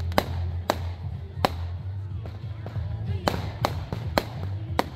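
Fireworks bursting overhead: about eight sharp bangs at irregular intervals, several coming in quick succession in the second half, over a steady low hum.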